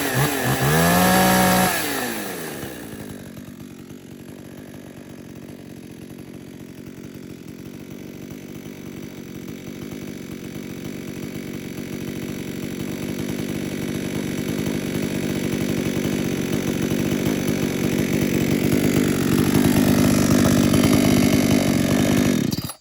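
Stihl 026 two-stroke chainsaw revved briefly, then settling to a steady idle that grows louder and stops abruptly near the end. It idles smoothly with its carburettor's high and low jets leaned out and the idle speed turned up a little.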